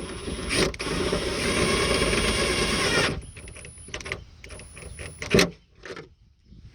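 Milwaukee cordless driver running a 10mm nut down onto a stud for about two and a half seconds with a high motor whine, then short bursts of the tool and plastic handling clicks, with one sharp loud knock near the end.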